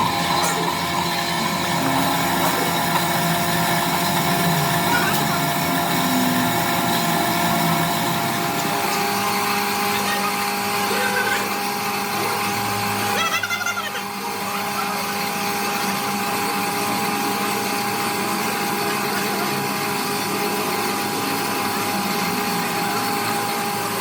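A power tool or workshop machine running steadily with a whine of several held tones, with a brief break in the sound about halfway through.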